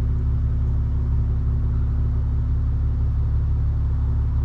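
Honda Civic Type R's turbocharged four-cylinder engine idling steadily: a constant low hum.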